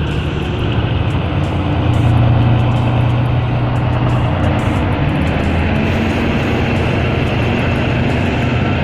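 Heavy vehicle engines running steadily, louder for a moment about two seconds in.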